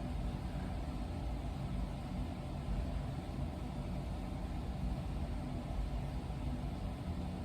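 Steady low rumble with a faint constant hum, unchanging throughout.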